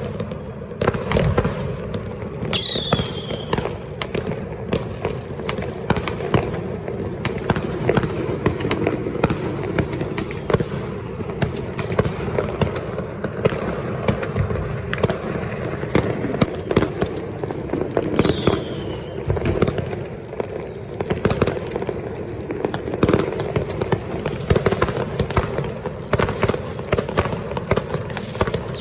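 Firecrackers and fireworks going off in a dense, unbroken barrage of overlapping bangs and crackles. A few high falling whistles cut through it, one early on, one past the middle and one at the end.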